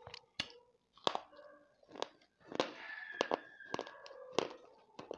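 Close-up mouth sounds of chewing dry clay-pot powder taken from a spoon: a dozen or so sharp, crunchy clicks and wet smacks at irregular intervals, with short quiet gaps between them.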